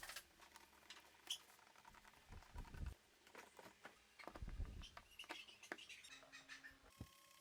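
Faint, scattered light clicks, taps and small scrapes of things being handled, with no motor running.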